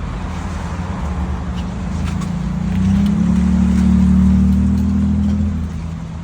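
Car engine running, getting louder and slightly higher in pitch about three seconds in as it picks up revs, then easing back near the end.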